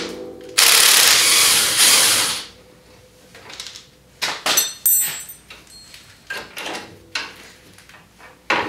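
Power tool running in two loud bursts while removing a shock bolt, then metal clinks and knocks from handling tools and parts.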